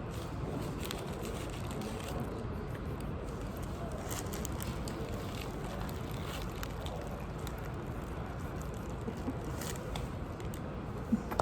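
Steady background room noise with scattered faint crackles and clicks from people eating sandwiches and handling the paper wrappers, and one sharper click near the end.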